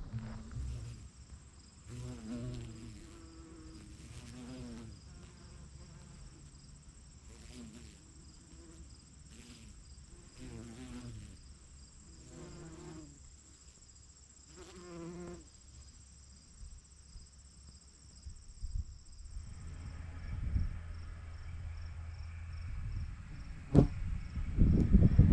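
Crickets chirping steadily: a continuous high trill with a second, rapidly pulsing trill beneath it. A single sharp click comes near the end.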